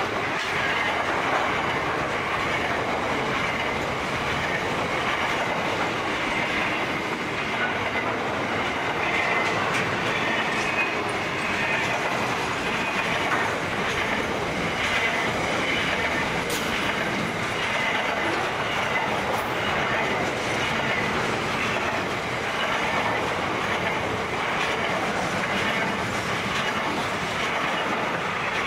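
Container wagons of a long freight train rolling past, a steady noise of steel wheels on rail with clicks as the wheels cross the rail joints.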